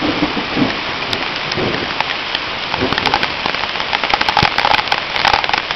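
Rain falling steadily, a dense hiss with many sharp ticks of individual drops striking a nearby surface. The ticks grow thicker in the second half.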